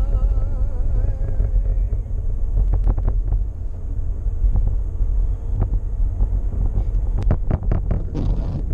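Steady low rumble of a car driving, with wind buffeting the microphone. A wavering tone fades out in the first two seconds, and short clicks and knocks come through later, several together near the end.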